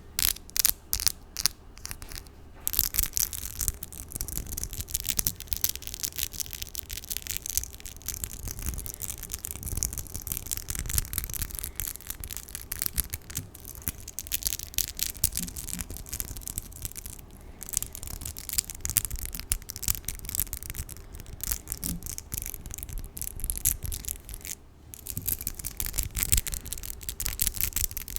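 Long artificial nails tapping in quick, evenly spaced clicks, then, about two and a half seconds in, scratching rapidly and continuously right against a bare condenser microphone, with a couple of short breaks.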